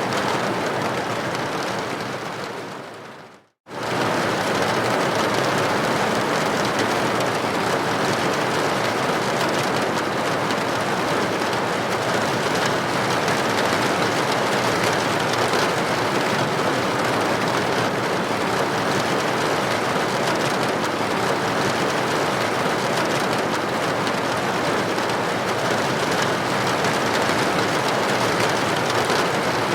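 Steady rain against a building window, an even hiss. About two seconds in it fades out to a moment of silence, then starts again abruptly just under four seconds in and runs on unchanged.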